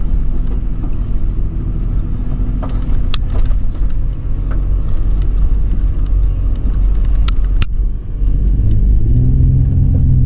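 2013 Toyota 4Runner's V6 engine and drivetrain running under load while driving over sand dunes, a continuous low rumble. There are a few sharp knocks about three seconds in and again near the eighth second, and after a brief dip the engine note steadies and grows louder.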